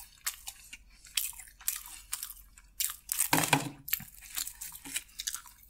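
Close-miked crunching and chewing of crispy fried food: a string of short, sharp crunches, with a louder crunch about three and a half seconds in.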